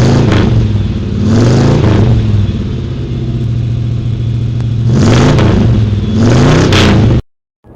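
A car engine revved four times, its pitch rising and falling with each rev between stretches of steady running, then cut off abruptly near the end.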